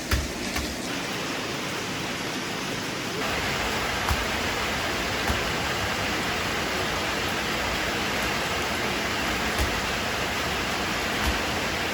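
Steady rain falling, growing heavier about three seconds in, with a few sharper drops standing out.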